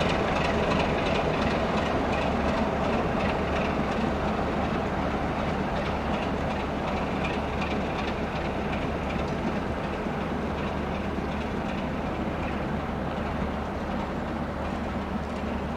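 Class 33 diesel locomotive's Sulzer engine running steadily as the train moves, with wheels clicking over the rail joints; the sound fades gradually.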